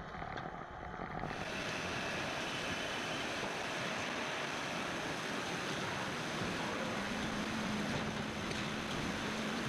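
Steady, noisy din of production-line machinery with a faint hum, growing fuller and a little louder about a second in.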